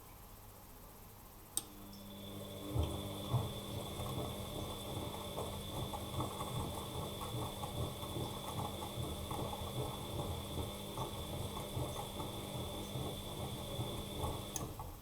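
Bosch Maxx Advantage WFCX2440 washing machine turning its drum in the wash cycle: a click, then a steady high motor whine and hum over uneven low thumping and sloshing of the load tumbling. It stops abruptly with another click near the end.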